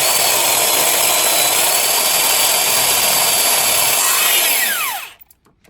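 Electric drill running at full speed, drilling a hole in metal with a high steady whine, then winding down and stopping about five seconds in.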